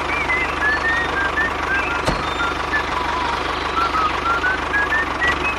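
A small motor running steadily, with a fast low pulsing hum under an even noise, a single sharp click about two seconds in, and a faint wavering whistle above it.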